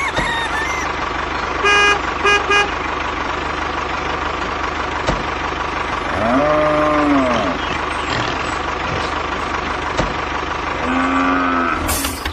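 A steady vehicle engine hum with two short horn toots about two seconds in. Later come two pitched tones that rise and then fall, one around the middle and one near the end.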